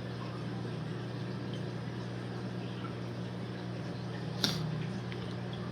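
Steady low hum of aquarium equipment, such as a filter or pump motor, running under a faint hiss, with one short click about four and a half seconds in.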